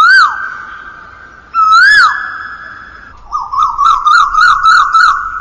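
A bird's whistled song: two loud rising-and-falling whistles about two seconds apart, then a quick warbling run of about five notes a second, each note trailing off in a long echo.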